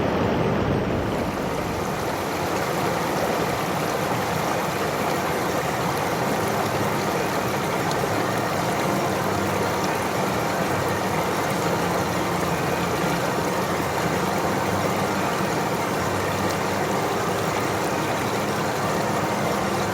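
Mountain stream rushing steadily over rocks: a continuous, even roar of water.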